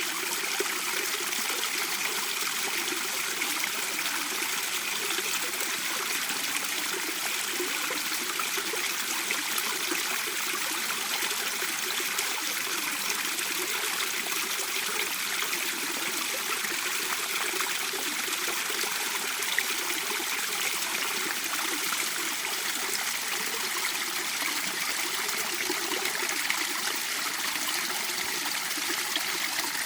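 Mountain stream water running steadily over rocks.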